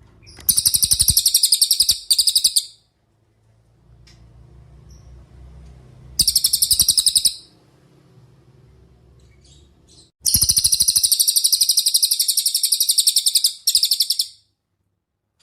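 Cililin songbird singing: fast, high, rapidly repeated trills in three bursts, the last one longest, with short pauses between.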